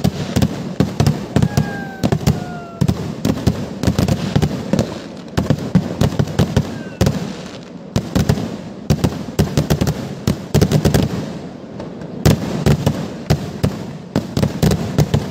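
Kerala festival fireworks (vedikettu): a dense, unbroken barrage of rapid cracks and bangs from aerial shells bursting overhead, many per second. The loudest bang comes a little after twelve seconds in.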